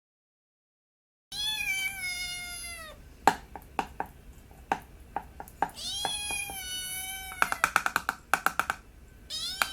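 Domestic cat meowing three times, long calls that fall in pitch, the first starting about a second in, as it begs to be fed. Between the meows come sharp clicks and, near the end, a quick run of taps.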